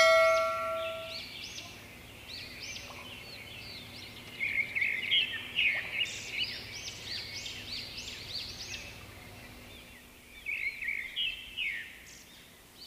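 Birds chirping and singing, a busy run of short whistled notes, louder in the middle and again near the end. A bright chime rings at the very start and dies away within about a second.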